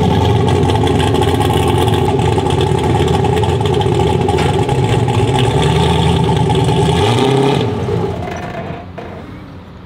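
Turbocharged LS V8 truck engine running loud at a steady, held speed. About seven and a half seconds in it drops off and fades away.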